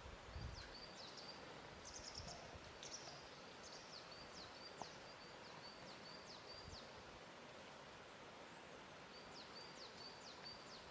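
Faint lakeside ambience: a steady soft wash of water, with a small bird singing repeated high chirps and quick down-slurred notes. The bird stops for a few seconds and starts again near the end.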